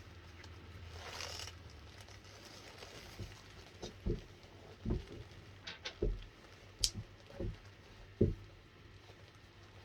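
A series of about six soft, dull thumps spread over several seconds, with light rustling and one sharp click partway through.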